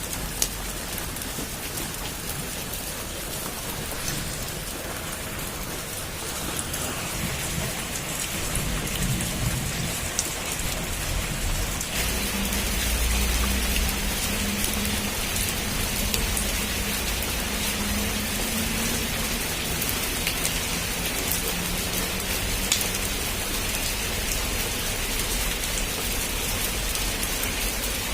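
Heavy rain pattering on a rooftop: a steady hiss with many small drop clicks. About twelve seconds in, a low rumble sets in and the rain grows louder.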